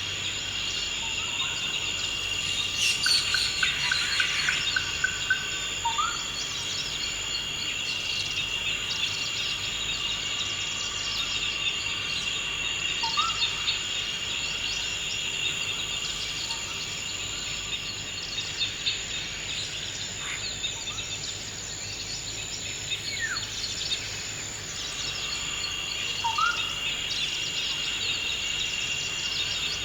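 Forest insects droning steadily at a high pitch, with birds chirping throughout and a few short rising whistled calls, one near the start, one in the middle and one near the end.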